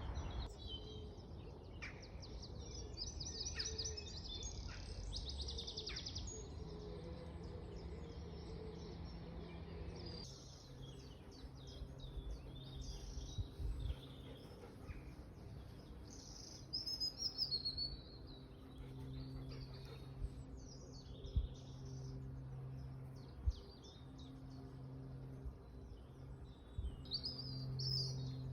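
Songbirds singing, a mix of varied phrases and fast trills of rapidly repeated notes, strongest in the first few seconds and again near the end. Under them runs a steady low hum, with two brief thumps a little past the middle.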